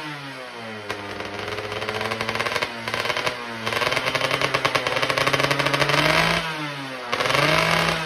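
Yamaha F1ZR two-stroke motorcycle engine revved through an R&R racing exhaust: the pitch climbs over several seconds and is held high, drops back, then one short blip near the end.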